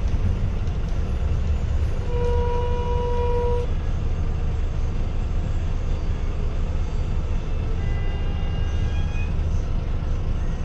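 Diesel engine of a Hyundai New Super Aero City bus running steadily with a low rumble. About two seconds in, a steady single-pitched tone sounds over it for about a second and a half.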